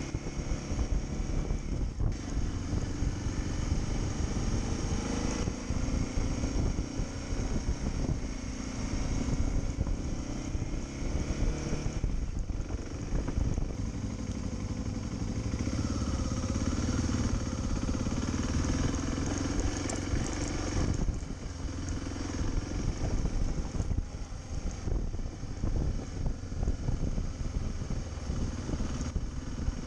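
Motorcycle engine running as the bike is ridden, its pitch rising and falling with the throttle.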